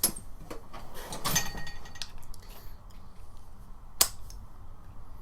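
Metal tools clicking and clattering as they are rummaged through and set down on a workbench, in a few scattered knocks with one sharp click about four seconds in.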